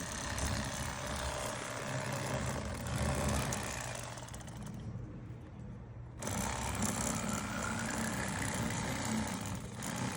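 A steady low rumble with a hum under a broad hiss, like a running engine. It thins out briefly about halfway through, then returns.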